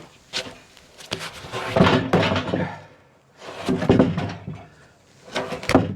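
Heavy wooden knocks, thuds and scraping in three bursts of about a second each, as a black walnut log or its slabs are shifted by hand on the sawmill.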